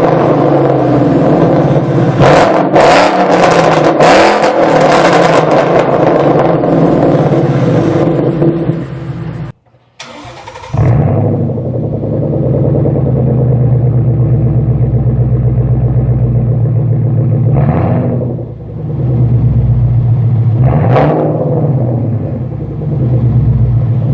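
Modified 2011–2014 Ford Mustang exhausts. First, one car revving hard over and over. Then, after a short break, another car idling with a deep, steady rumble, blipped twice.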